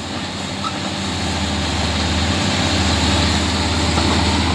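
Heavy diesel engine running with a steady low hum, growing gradually louder.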